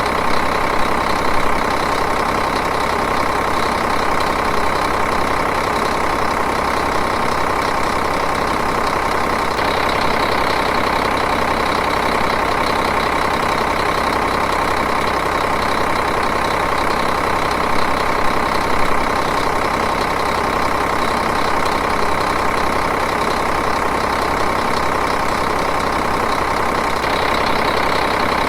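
Diesel engine idling steadily, with an even, rapid clatter.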